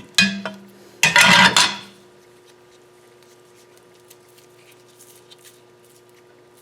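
Metal parts and hand tools clinking and clattering on a workbench. A sharp clack with a brief ringing tone is followed by a loud clatter about a second in. Then only small ticks of handling.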